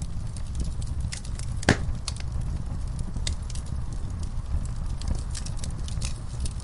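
Wood fire burning in a fireplace: a steady low rumble of flames under frequent sharp crackles and pops from the logs, the loudest pop a little under two seconds in.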